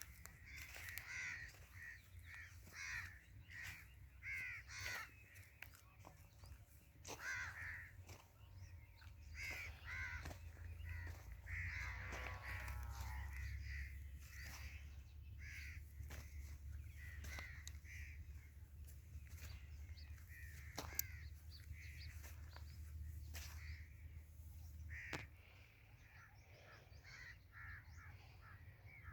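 Birds calling over and over with harsh, crow-like caws, faint and spread through the whole stretch, along with a few sharp clicks. A low steady rumble runs underneath and drops away about 25 seconds in.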